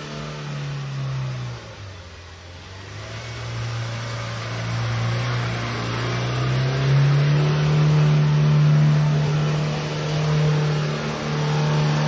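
A 4x4 off-roader's engine revving under load as it drives through deep mud. The engine note drops briefly about one and a half seconds in, then climbs from about seven seconds in and holds high.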